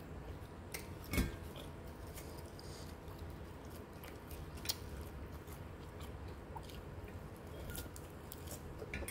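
Close-miked chewing with a few sharp, crunchy clicks, the loudest about a second in; near the end a bite of curly lettuce.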